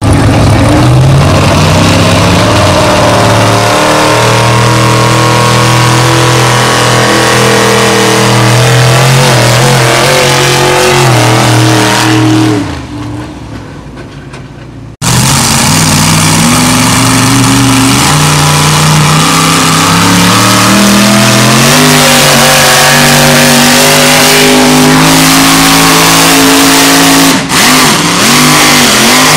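Pulling-competition engine running flat out under heavy load, its pitch slowly climbing, then dying away about twelve seconds in. After a sudden cut, another pull's engine starts at full power and runs loud with a rising pitch, dipping briefly just before the end.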